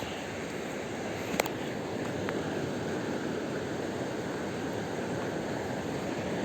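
Steady hiss of rain and sea surf, with a sharp click about a second and a half in.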